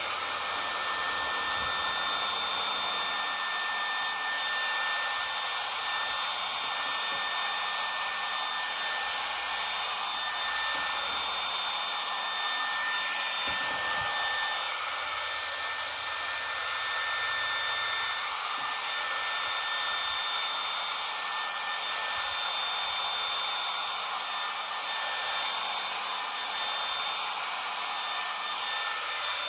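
Remington HC6550 cordless vacuum hair clippers running steadily during a haircut: the built-in vacuum fan sounds like a vacuum cleaner, with a steady high-pitched whine over its whir.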